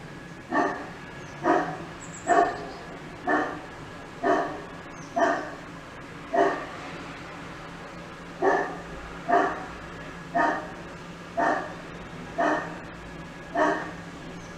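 A dog barking over and over, about one short bark a second, with a pause of about two seconds just after the middle.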